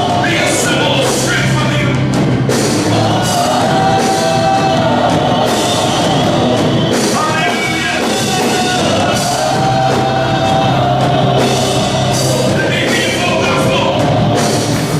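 Church band music with singing, sustained notes over drums and cymbals keeping a steady beat.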